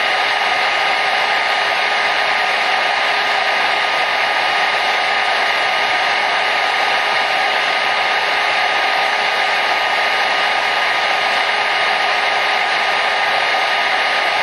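Hair dryer running steadily: a constant airy rush with a faint motor whine.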